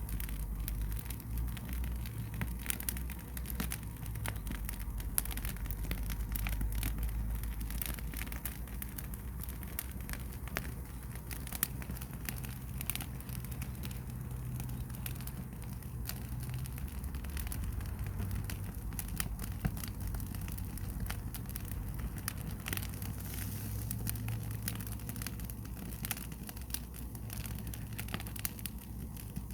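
Firewood fire burning and crackling, with scattered sharp pops over a steady low rumble.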